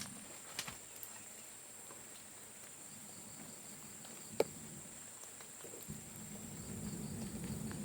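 Steady high-pitched drone of insects, such as crickets or cicadas, with scattered small clicks and one sharper snap about four and a half seconds in.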